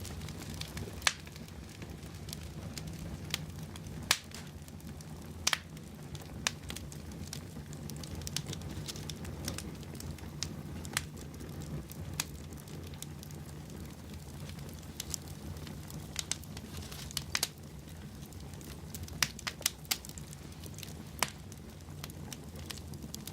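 Wood fire burning in a fireplace: a steady low rumble of flame with irregular crackles and sharp pops from the burning logs.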